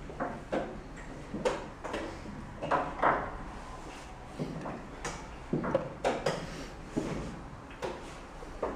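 Chess pieces being set down and moved on the board and the chess clock being hit during a rapid game: about a dozen short knocks at irregular intervals, some in quick pairs.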